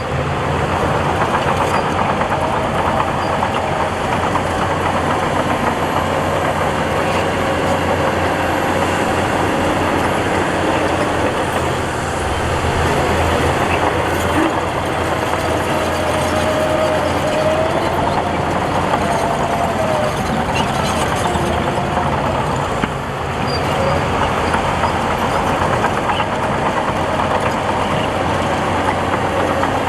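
Heavy diesel earthmoving machinery running steadily, with a wavering whine over the engine drone and two brief dips in level.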